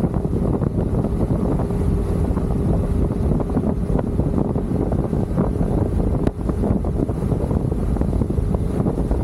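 Heavy wind buffeting the microphone of a motorcycle at road speed, with a faint steady engine note under the rush.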